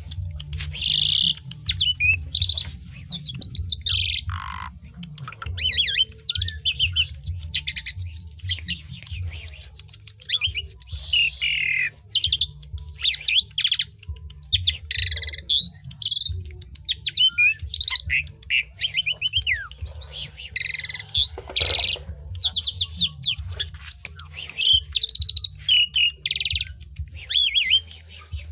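Asian pied starling (jalak suren) singing an energetic, continuous run of varied whistles, chatters and rattling phrases with short pauses, over a steady low hum.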